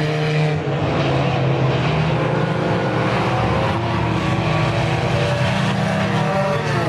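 Several race cars running laps together on a dirt oval, their engines at different pitches rising and falling as they pass and back off for the turns.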